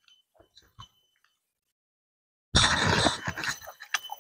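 Close-miked eating sounds: a person chewing with faint wet mouth clicks, then, about two and a half seconds in, a sudden loud noisy burst lasting under a second, followed by a few scattered clicks.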